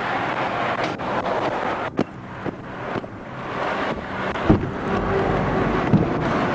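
Wind noise on the microphone with road traffic noise, swelling and easing, and a few brief knocks.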